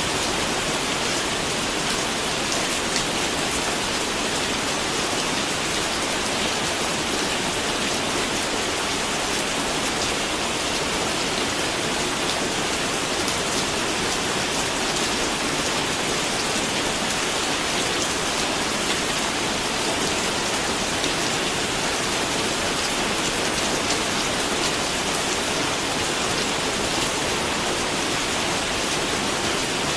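Steady rain falling, an even patter of many fine drops on a surface.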